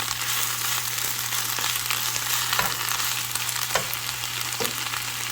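Spinach wilting in a hot, oiled frying pan, sizzling and crackling steadily while it is stirred, with a few light knocks of the utensil against the pan.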